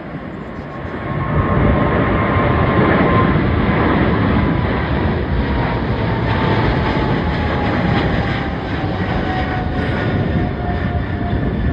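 Jet airliner's engines at takeoff power, growing louder about a second in: a deep rumble with a high engine whine that slowly falls in pitch as the aircraft passes.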